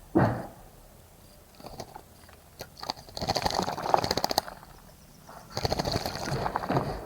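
Small bird bathing in a bird bath, fluttering its wings in the water in two rapid splashing bouts about a second long each, after a short low sound near the start.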